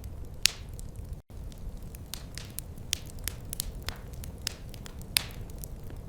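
Fire crackling in a fireplace: irregular sharp snaps and pops, the loudest about half a second in and about five seconds in, over a low steady rumble.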